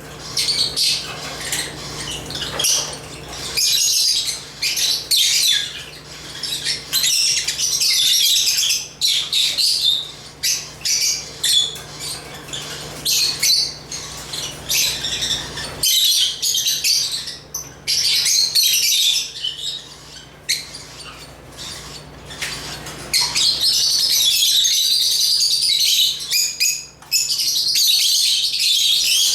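Lovebirds chattering in a dense flock of high chirps and squawks, in bursts of a few seconds with short lulls, busiest near the end.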